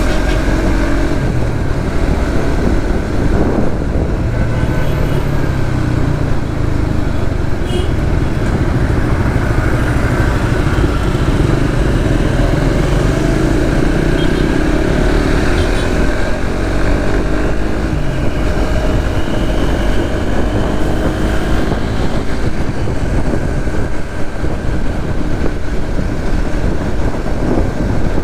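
Suzuki GSX-S150's single-cylinder engine running under way, its note rising and falling with the throttle, over a steady rush of wind and road noise.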